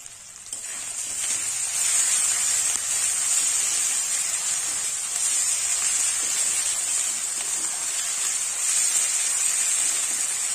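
Chopped onions and ginger-garlic paste sizzling in hot mustard oil in an aluminium kadai while being stirred with a spatula, the oil spattering hard. The sizzle swells about half a second in and then holds steady.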